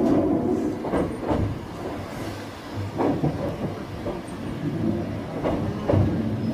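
Choshi Electric Railway 2000-series electric train running on the line, a steady rumble broken by irregular knocks as the wheels pass over rail joints.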